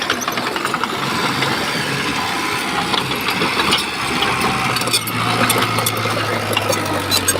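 Diesel engine of heavy earthmoving machinery running steadily, with scattered sharp clicks and clatter. A deeper, steady engine tone comes in about five seconds in.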